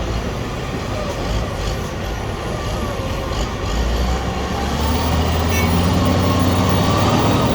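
Heavy diesel engine running, getting louder from about halfway through as it revs up, with a faint rising whine above it.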